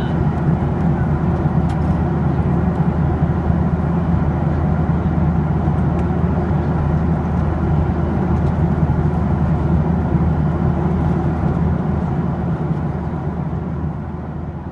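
Steady cabin noise inside a Boeing 737-800 in flight: the drone of its CFM56 turbofans and the rush of air along the fuselage, with a strong low hum. It fades out near the end.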